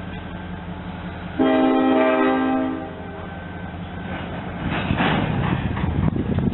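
A train horn sounds one chord-like blast of about a second and a half over the low, steady hum of an idling diesel locomotive. A few seconds later, the rumbling noise of a moving train builds up.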